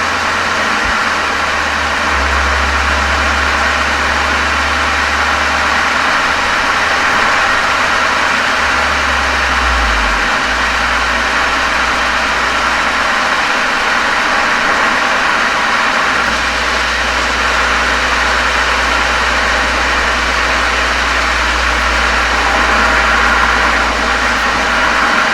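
Exhaust of a Volkswagen Golf 7 GTI's turbocharged 2.0-litre four-cylinder through an aftermarket COX muffler, heard from a microphone outside at the rear. It runs steadily, and its low drone shifts in level a few times.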